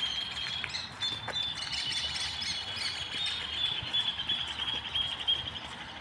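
Birds chirping, one giving a long, rapid trill that carries on for several seconds and stops near the end, with shorter higher chirps over it.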